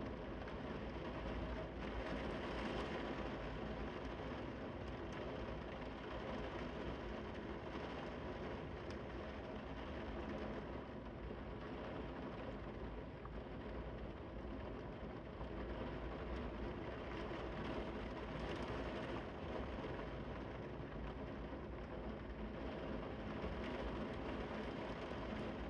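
Heavy rain falling steadily, a continuous even hiss with a low rumble underneath.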